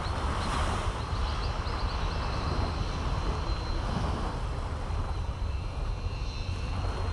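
Caribbean Sea surf washing steadily on the beach, a continuous low rumble, with a bird giving a quick run of high chirps about a second in.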